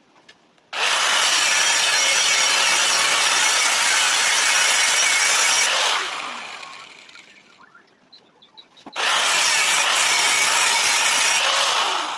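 A power tool run in two long bursts, each starting abruptly at full speed; the first winds down gradually over a couple of seconds before the second starts.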